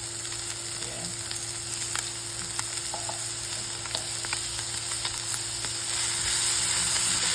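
Hot dogs and chopped chicken frying in a pan with a little oil: a steady sizzle with scattered crackling pops. It gets louder near the end.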